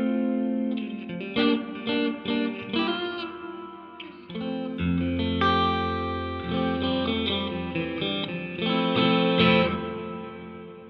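Electric guitar played through a Donner Yellow Fall II pedal's room reverb with the decay turned all the way up: picked notes and chords, each with a long reverb tail. It fades out near the end.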